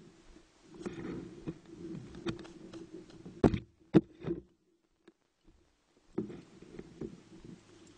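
Irregular knocks, taps and rustling close to the microphone, with two sharp knocks about halfway through. The sound cuts out completely for about a second and a half, then the knocking resumes.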